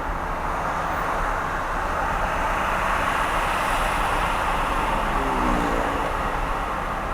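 Car driving at road speed: steady tyre and road noise that swells a little in the middle, with a brief falling tone about five seconds in.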